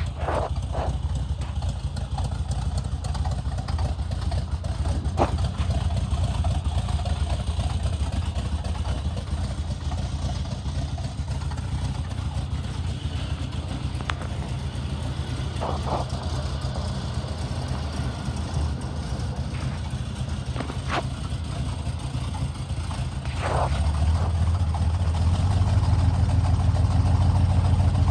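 1974 GMC 6500 truck engine idling steadily, with a few brief clicks; the engine sound grows louder near the end.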